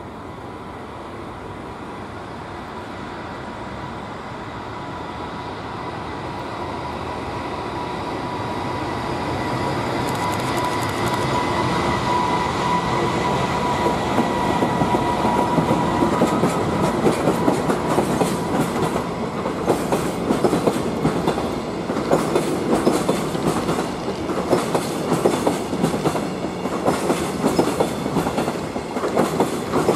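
Freight train hauled by an EF200 electric locomotive approaching and passing, with a rumble that grows over the first dozen seconds and a steady high whine that peaks in the middle. From about the middle on, the container wagons' wheels clatter over the rail joints in a rapid clickety-clack. The DE10 diesel in the consist is towed unpowered, so no diesel engine is heard.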